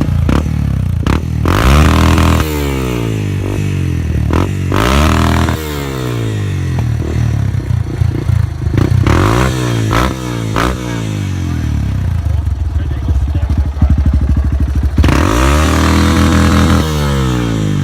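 Yamaha TT-R230's single-cylinder four-stroke engine, fitted with a new aftermarket exhaust, running and being revved up and let back down to idle several times.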